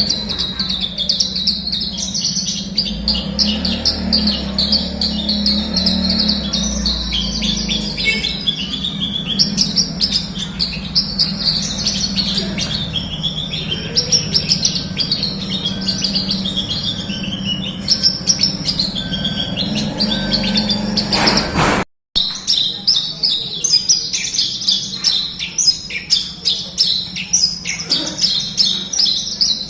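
Javan bush lark singing a continuous stream of rapid, high chirps and trills, over a steady low hum. The song cuts out abruptly for a split second about 22 seconds in, then resumes.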